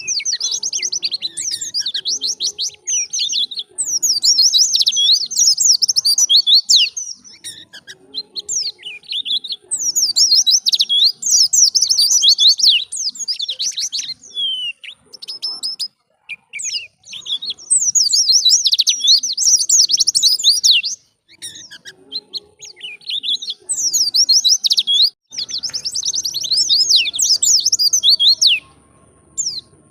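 White-eye (pleci) singing a fast, high-pitched twittering song in loud phrases a few seconds long, separated by short pauses.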